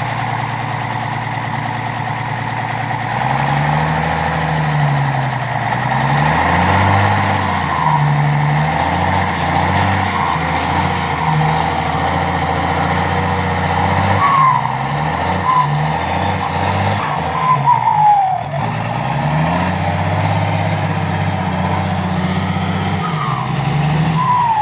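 Isuzu 6BB1 inline-six diesel engine with a turbocharger, revved up and dropped back again and again, with the turbo's whistle and hiss running over it. Each time the revs fall, the turbo whistle slides down in pitch.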